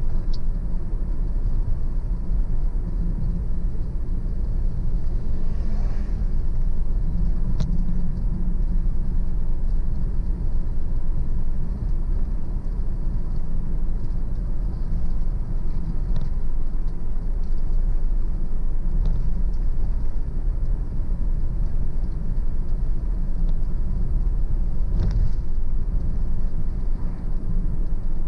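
Car driving steadily along a road: a continuous low rumble of engine and tyre noise, with a few faint clicks here and there.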